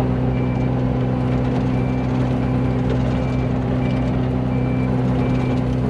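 Excavator's diesel engine running steadily, heard from inside the cab. A short high beep repeats about every three-quarters of a second, the machine's motion alarm.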